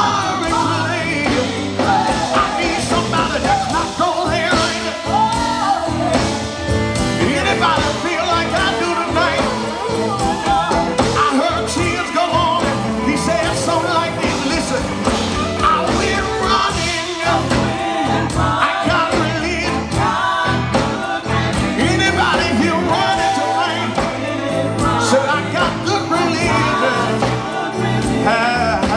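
Live gospel quartet music: singers over electric guitar, bass, keyboard and drums, playing continuously at a steady loud level.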